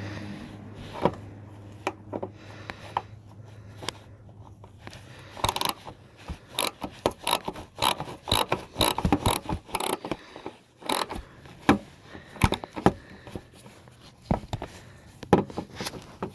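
Hand socket ratchet clicking in quick, uneven runs, with scraping and knocks of the tool, as a fender bolt is worked loose. The clicking starts in earnest about five seconds in.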